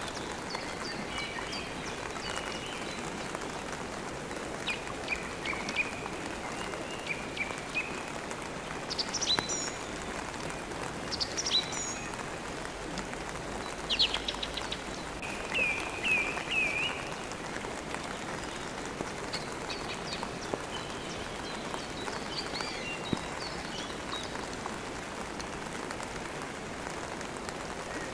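Steady rain with birds chirping and trilling over it, the calls coming in short bursts and thickest around the middle.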